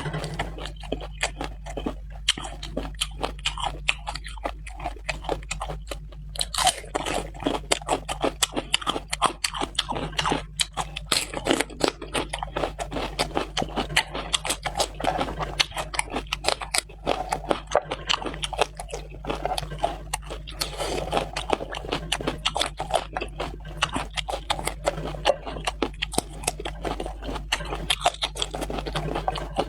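A person chewing and biting food close to the microphone, a dense run of irregular crunchy, wet clicks.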